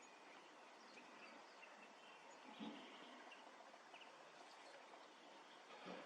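Near silence: faint outdoor background hiss with a few faint bird chirps and a soft bump about two and a half seconds in.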